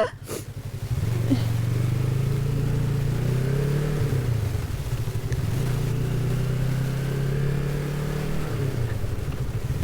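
Motorcycle engine pulling away: it picks up about a second in and runs on steadily under load, its note dipping briefly twice as it shifts gear.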